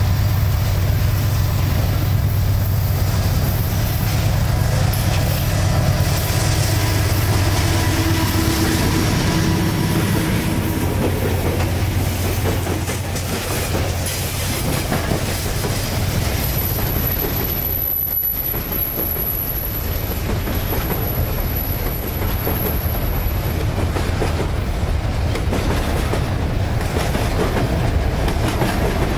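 Diesel freight train passing close: the lead locomotives' engines drone for about the first twelve seconds, then the hopper cars roll by with wheels clacking over the rail joints. A faint thin high tone sounds for several seconds in the middle.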